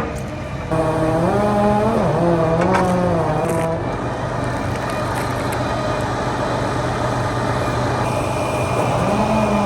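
Heavy machinery engine running steadily, its speed stepping up just under a second in and rising and falling for a few seconds, then rising again near the end.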